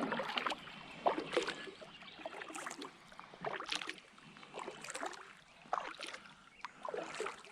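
Paddle strokes dipping and splashing in calm water, about one stroke a second, with water dripping between strokes.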